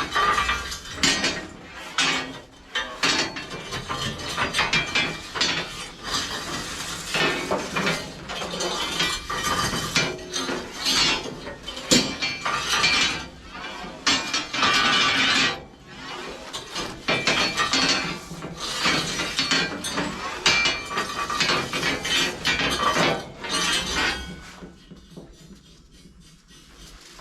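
Irregular metal clanking and scraping, many strokes close together, falling away about 24 seconds in.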